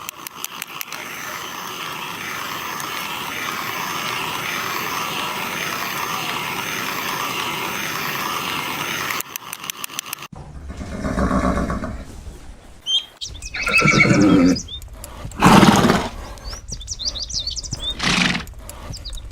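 A steady rushing noise for about nine seconds, then a horse neighing four times, each whinny with a shaky, wavering pitch; the loudest calls come about two-thirds of the way through.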